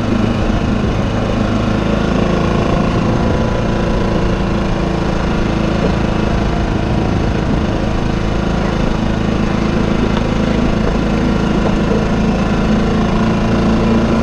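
A small yacht's engine running steadily at a constant speed, its sound the engine trouble the boat was developing.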